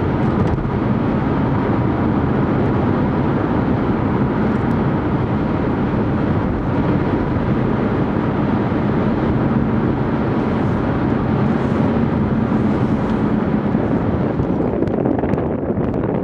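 Steady drone of a car on the move, heard from inside the vehicle, with wind noise mixed in.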